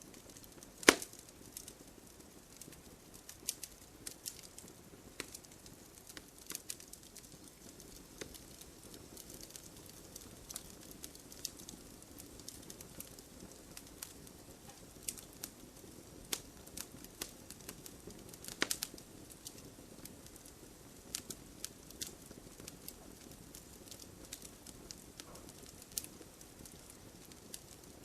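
Wood fire burning in a fireplace, crackling with irregular sharp pops over a soft low rustle of the flames. The loudest pops come about a second in and again about two-thirds of the way through.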